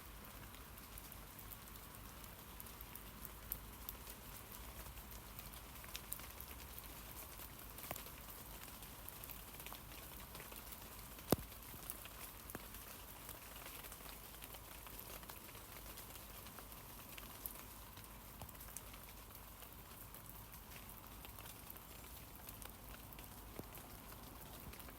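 Rain falling on tree leaves: a soft steady hiss with many small scattered taps of drops, and one sharper tap about eleven seconds in.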